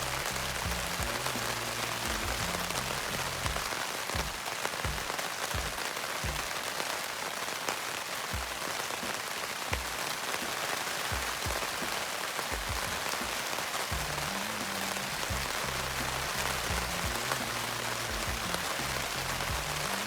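Steady rain, with scattered drops striking close by. Soft background music with a low bass line is heard at the start and comes back about two-thirds of the way through.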